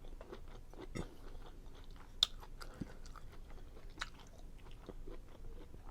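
A person chewing a mouthful of food close to the microphone, with soft wet mouth noises and scattered small clicks, one sharper click about two seconds in.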